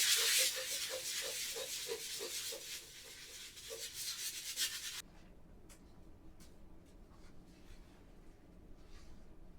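Brisk scrubbing with a brush, about three strokes a second, stopping suddenly about halfway through; a few faint light ticks follow.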